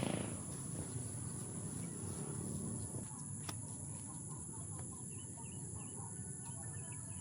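Small birds chirping faintly in quick repeated calls through the second half, over a steady high hiss that may come from insects.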